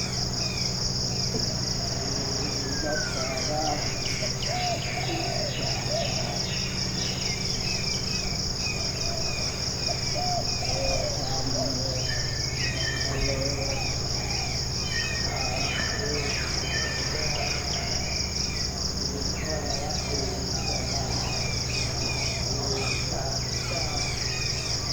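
Tropical forest ambience: a steady, finely pulsing high-pitched insect trill runs throughout, with scattered bird chirps and calls on top and a low steady hum beneath.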